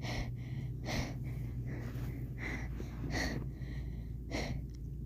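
A person breathing heavily and unevenly, out of breath after running, with about six loud breaths over a steady low hum.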